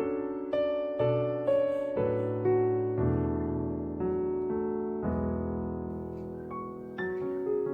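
Background piano music: soft, slow notes and held chords.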